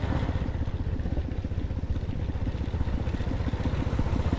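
A small engine running steadily, with a rapid even pulsing beat.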